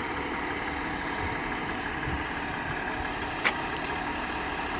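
Diesel rail engine idling steadily, with one short click about three and a half seconds in.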